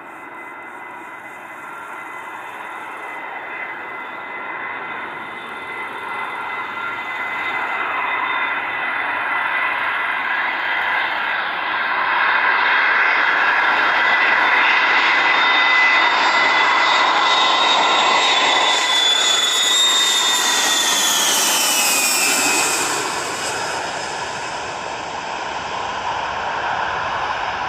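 Boeing 707-based E-3A AWACS jet on landing approach, flying on three of its four Pratt & Whitney TF33 turbofans. The jet roar and whine grow steadily louder as it approaches. About three-quarters of the way through, the high whining tones slide down in pitch as it passes, and then the sound fades.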